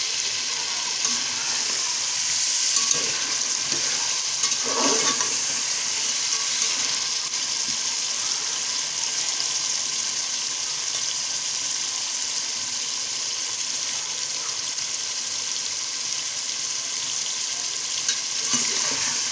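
Beef, potatoes and tomato masala sizzling steadily in oil in an aluminium pot, with a spatula stirring and scraping through it a few times around three to five seconds in and again near the end. The masala is being fried down (bhuna) and is nearly done.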